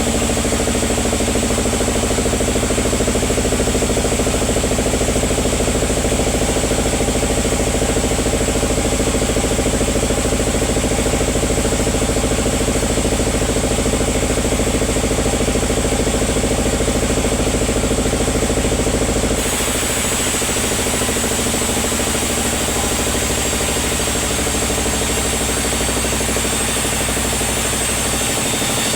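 Sawmill machinery running with a steady, loud drone made of several even, level tones. The sound changes abruptly about two-thirds of the way in.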